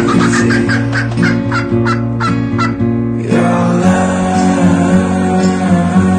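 A bird's quick series of short repeated calls, about three a second, lasting about three seconds, over acoustic guitar background music that continues after the calls stop.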